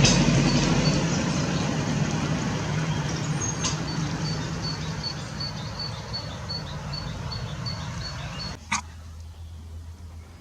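A motor vehicle running and slowly fading away, with a faint high chirp repeating about twice a second over it. Near the end comes a sharp click, and the noise drops suddenly to a low hum.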